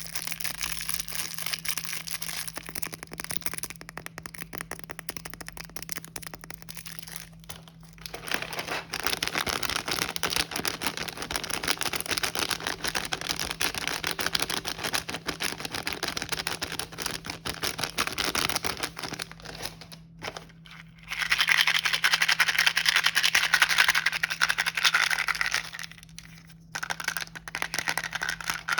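Snack packaging handled close to the microphone: plastic wrappers and bags crinkling and rustling with small scrapes. It is quieter at first and loudest for several seconds after the middle.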